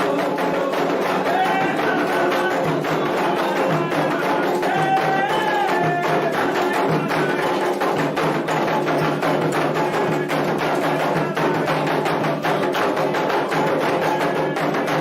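Candomblé atabaque drums playing a fast, steady rhythm for the orixá Oxumaré, with voices chanting over the drums at times.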